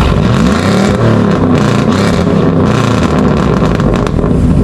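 Motor vehicle engine running, its pitch rising and falling over several seconds as it revs.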